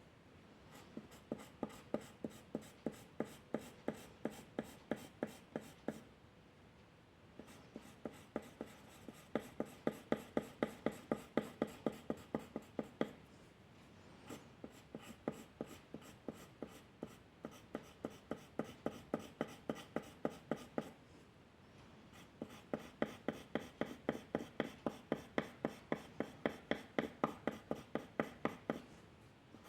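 A drawing tool scratching back and forth on paper in quick, even coloring strokes, about four a second. The strokes come in runs of several seconds, with short pauses between them.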